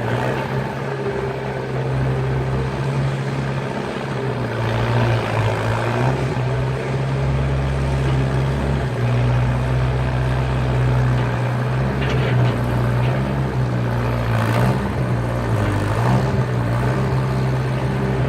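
Skid steer engine running steadily at working speed. Its pitch dips briefly a few times as it takes load, with a few short stretches of rougher noise.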